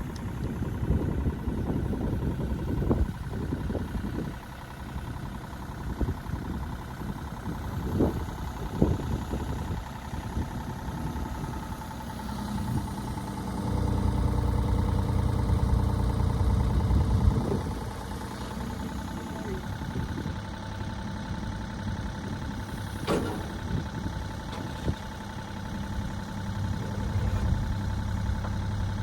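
John Deere 27D mini excavator's diesel engine running, working harder for a few seconds about halfway through, with a few scattered knocks and clanks.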